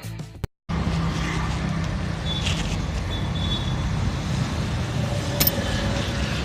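Steady motor-vehicle and road-traffic noise with a low engine drone, starting after a brief cut to silence, with one sharp click about five and a half seconds in.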